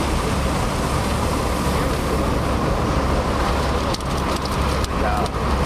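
Road and wind noise inside a moving car: a steady rushing with a deep rumble, joined by a scatter of sharp ticks from about four seconds in.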